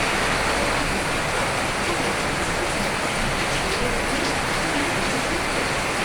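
Steady heavy rain falling, an even rushing patter with scattered faint drop ticks.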